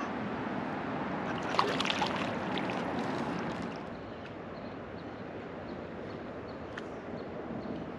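River water flowing and gurgling around a floating raft, with a louder patch of splashes between about one and a half and three and a half seconds in, then settling to a softer steady flow.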